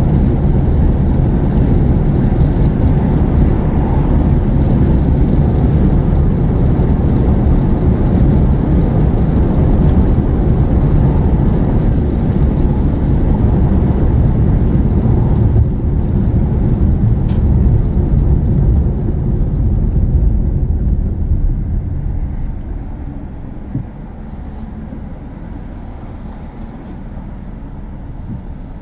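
Car cabin noise from the inside: a steady low engine and tyre rumble at speed that dies away over a few seconds near the end as the car slows down.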